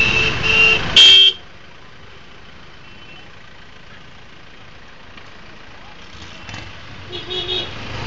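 Vehicle horns honking amid road traffic, cut off abruptly about a second in, leaving a quieter steady background; a short horn toot sounds again near the end.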